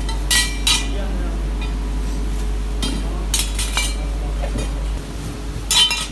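Metal parts clinking and clanking as they are handled, in irregular sharp strikes: a pair near the start, a quick cluster in the middle and one more near the end. A steady low hum runs underneath and stops about five seconds in.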